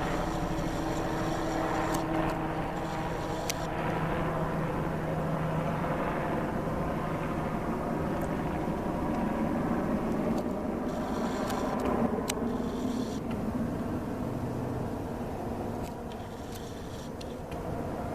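Helicopter flying, a steady drone of engine and rotor with a few sharp clicks, fading slightly near the end.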